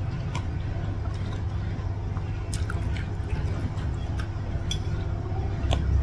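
A person chewing a mouthful of raw cucumber with wet, squishy mouth sounds and a few sharp clicks, over a steady low hum.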